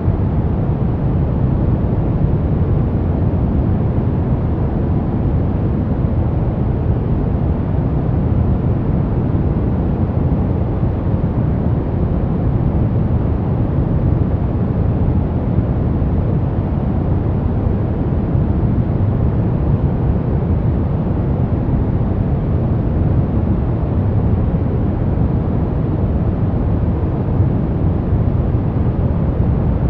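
Steady sleep white noise: a constant, deep hiss that is strongest in the low end and never changes.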